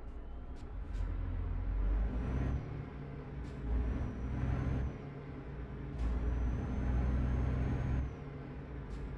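Truck's diesel engine heard from inside the cab, pulling hard in three surges of one to two seconds each and dropping back between them, with a faint high whistle rising over each surge. A few sharp clicks are heard along the way.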